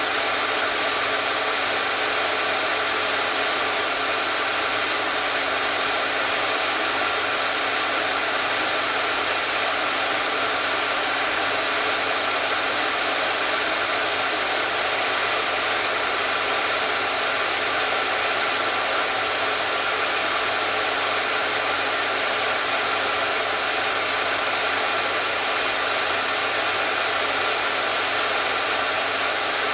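Electric hair dryer running steadily: an even, unbroken rush of air with a faint motor hum, no change in speed.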